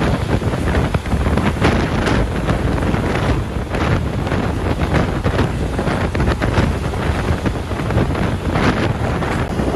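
Wind buffeting the microphone in constant gusts, with traffic noise beneath it.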